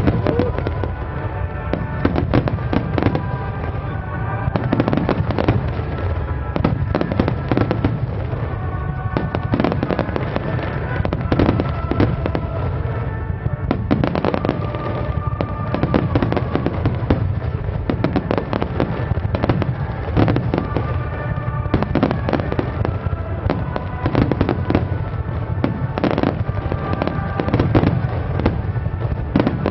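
Fireworks finale: a dense, continuous barrage of shell bursts and crackling, many bangs overlapping with no pause.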